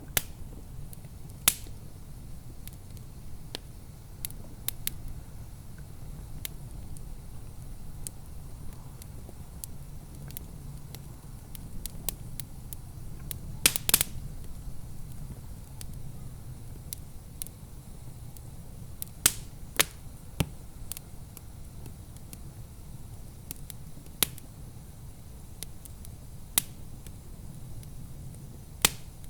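Wood fire crackling in a fireplace: sharp, irregular pops and snaps, a few of them loud, over a steady low rumble.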